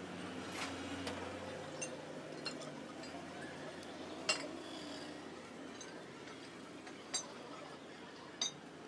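A handful of light clinks and taps, irregularly spaced, the sharpest about four seconds in, over a steady low background noise.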